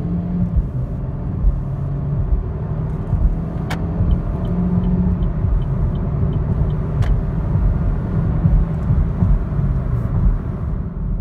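A 2018 Chevy Cruze's 1.4-litre turbocharged four-cylinder engine pulling hard under full-throttle acceleration, heard from inside the cabin together with road noise as the car gathers speed.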